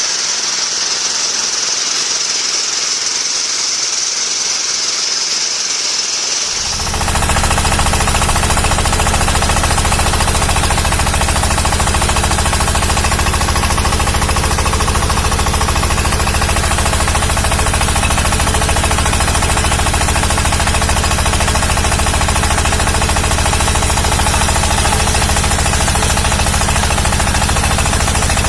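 Diesel engine of a trolley-mounted water pump running with a steady, rapid clatter. About seven seconds in, the sound abruptly becomes much louder and fuller, then holds steady.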